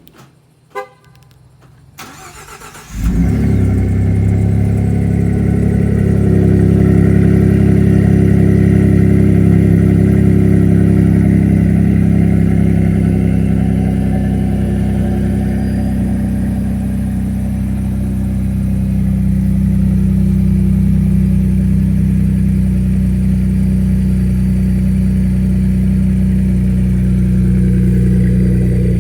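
Cold start of a Ford 3.5 EcoBoost twin-turbo V6 through a 3-inch MBRP side-exit exhaust. After a short beep, the starter cranks briefly and the engine catches about three seconds in. It then idles loud and steady, easing slightly about halfway through.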